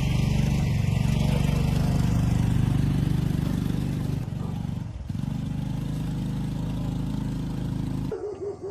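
An engine running steadily at an even speed, with a short dip a little past the middle and a sudden stop near the end.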